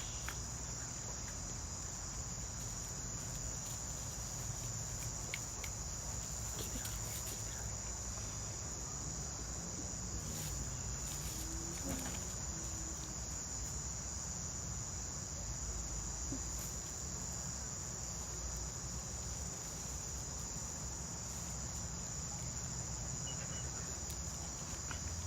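Steady night-time insect chorus: one continuous high-pitched trill that does not change, with a few faint clicks or rustles.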